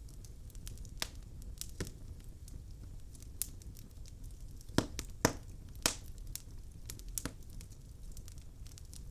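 Wood fire in a fireplace crackling: irregular sharp pops and snaps from the burning logs over a low steady rumble of the flames, with three louder pops a little past the middle.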